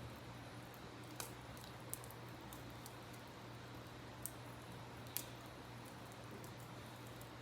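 Wood campfire crackling, with a few sharp pops scattered through, over a faint steady rush of river water.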